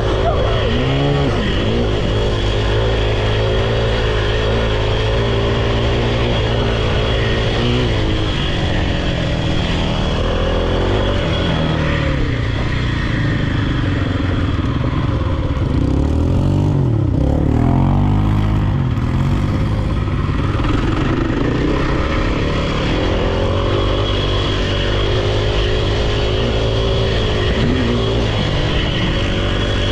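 Off-road vehicle engine running hard and revving up and down over and over, its pitch rising and falling throughout.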